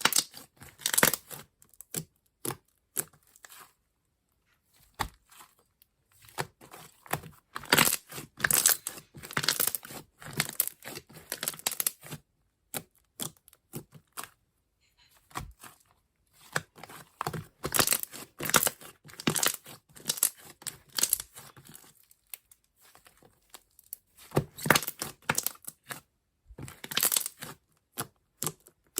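Iceberg slime being worked by hand, its dried, hardened top crust crackling and crinkling in bursts of dense small crackles, with short pauses between the bursts.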